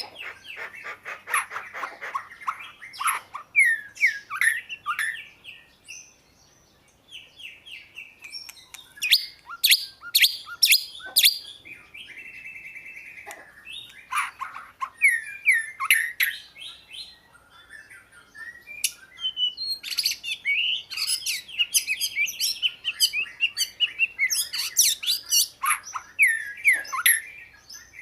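Oriental magpie-robin singing varied phrases of quick whistles and chirps, with a steady buzzy trill near the middle and brief pauses between bouts.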